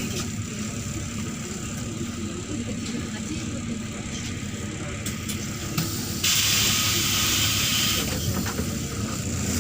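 Neman city bus heard from on board: a steady low rumble of engine and road noise, then about six seconds in a loud hiss of compressed air from the bus's pneumatic system, lasting under two seconds before it cuts off.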